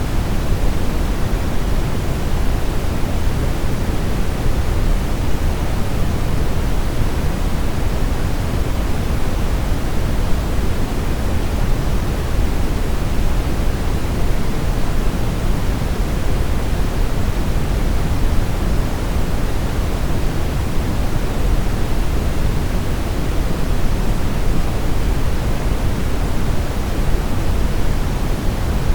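Brown noise: a steady, even rushing hiss weighted toward deep low rumble, with no change or events.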